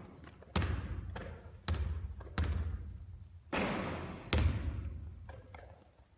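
Basketball bouncing hard on a court floor, about six thumps a half-second to a second apart, each ringing on briefly in the hall.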